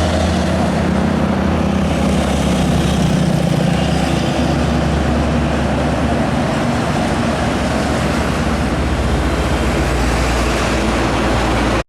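Heavy diesel truck engine running steadily with road noise, then cutting off suddenly at the end.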